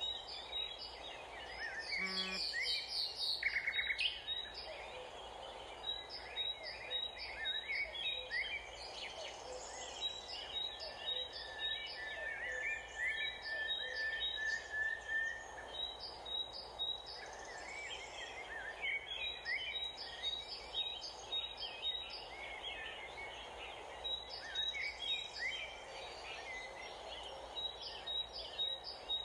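Birds chirping and singing, many short calls repeating and overlapping, over steady outdoor background noise. It is louder for a moment about two seconds in, and one steady high note is held for a few seconds near the middle.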